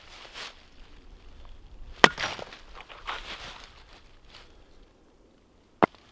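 Rustling and crunching movement, with a sharp loud crack about two seconds in and a shorter sharp knock near the end.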